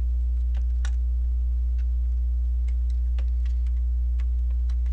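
Faint, irregular small clicks of plastic Lego pieces being handled and pressed together, over a loud steady low electrical hum.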